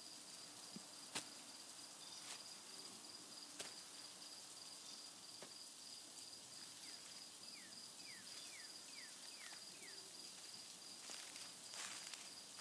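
Faint woodland ambience: an insect trills steadily on one high pitch, with a few sharp clicks in the first few seconds. About halfway through, a bird gives a quick run of about six short falling chirps.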